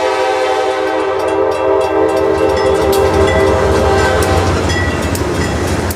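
Locomotive air horn sounding a steady multi-note chord over the rumble and clicking wheels of a passing train. The horn dies away about four seconds in, leaving the train's rumble and wheel clicks.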